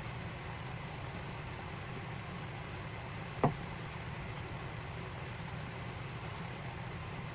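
Steady low motor hum, with one sharp click about three and a half seconds in.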